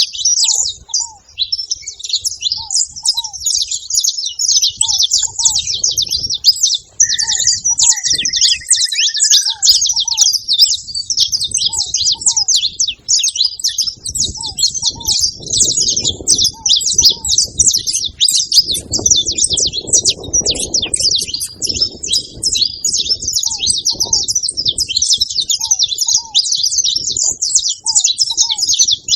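Saffron finch (canário-da-terra) in breeding conditioning calling without pause, a dense stream of rapid, high-pitched chips and trills. A brief falling whistle sounds about seven seconds in.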